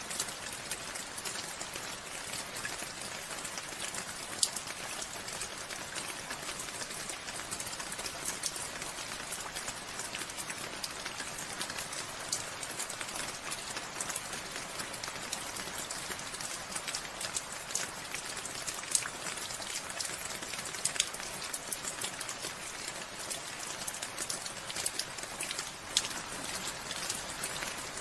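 Steady rain falling, with individual drops striking a surface in many sharp close ticks, a few louder ones standing out.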